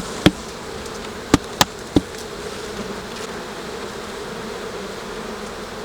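Honey bee colony buzzing steadily around an opened hive. A few sharp clicks or knocks in the first two seconds.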